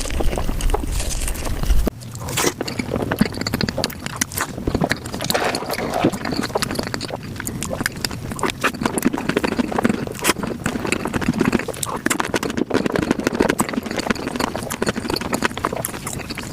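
Close-miked eating sounds sped up five times: chewing, biting and wet mouth clicks run together into a fast, dense stream of clicks. A low hum underneath cuts off about two seconds in.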